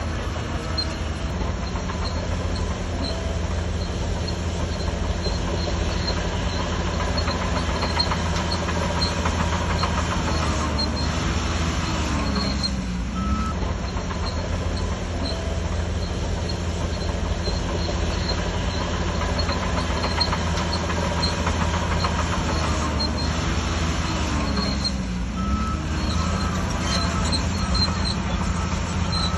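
Shantui DH17C3 bulldozer's diesel engine working steadily under load, with a faint regular ticking high above it. The engine pitch dips and comes back up twice, about halfway through and near the end.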